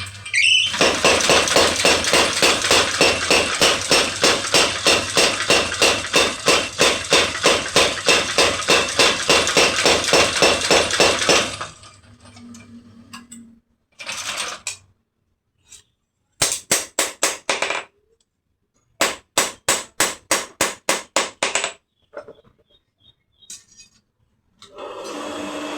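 Blacksmith's hammer striking metal on an anvil in a fast, even run of ringing blows, about three or four a second. The run stops a little before halfway, and after that the hammering comes in shorter runs with silent gaps between them.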